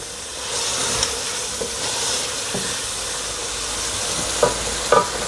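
Chicken curry masala sizzling in hot oil in an aluminium pot while a wooden spoon stirs it through: a steady frying hiss as the masala is fried down (bhuna), with two short sharp sounds near the end.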